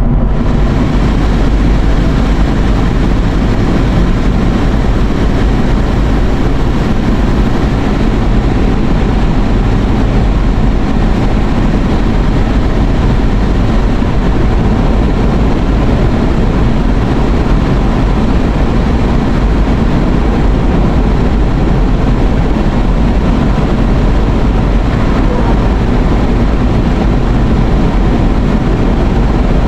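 Steady road and wind noise heard from inside a moving car, with a low rumble underneath. The rush grows brighter right at the start and then holds level.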